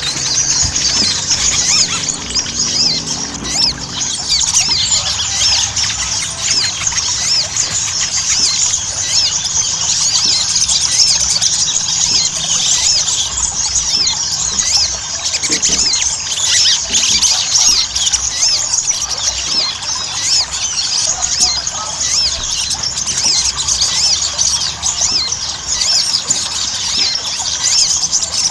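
Ruby-cheeked sunbird (sogon) in full song: a continuous, fast stream of high, thin chirps, trills and squeaky twitters that runs without a break.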